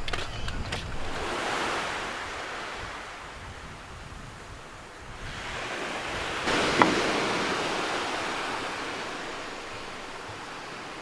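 Sea waves washing onto the beach, the surf swelling, fading and swelling again, with a brief sharp click about seven seconds in.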